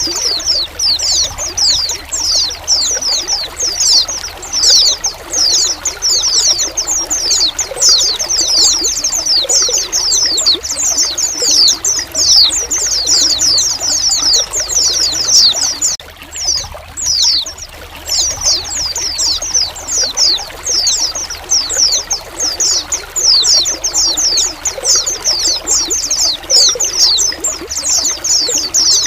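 A flock of white-eyes (pleci) calling together: a dense, continuous chatter of short, high, downward-sliding calls over steadily trickling water. The calls thin out briefly a little past halfway, then resume.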